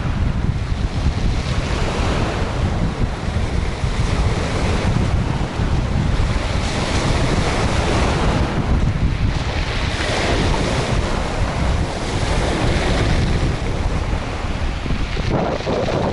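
Strong wind buffeting the microphone with a heavy low rumble, while gusts of rushing hiss rise and fall several times.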